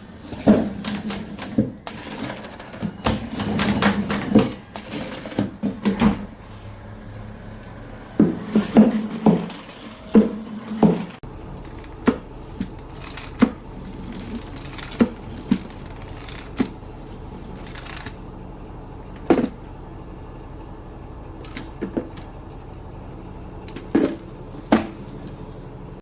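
Irregular clicks, clacks and knocks of hard objects being handled, thick and fast at first, then single knocks every second or two after an abrupt change about eleven seconds in.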